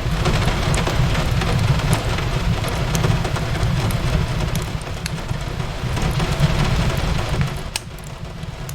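Steady rain falling on a window, with a deep rumble underneath, and a fireplace crackling with scattered sharp pops.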